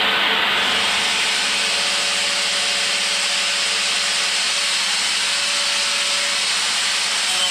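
Electric power tool running steadily against the damaged fiberglass shower, roughing up and cutting away the broken material; its high hiss gets stronger about half a second in.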